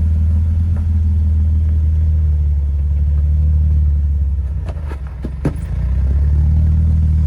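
Jeep engine running steadily at low revs while crawling on a rock trail. The engine drone dips briefly about five seconds in, where a few sharp knocks sound.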